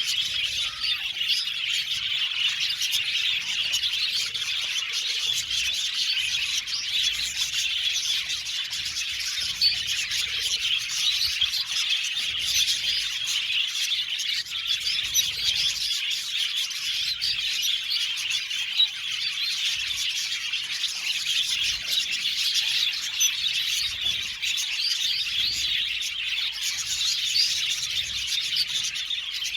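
A flock of budgerigars chattering and chirping together in an aviary, a dense, continuous mass of many overlapping high chirps and warbles.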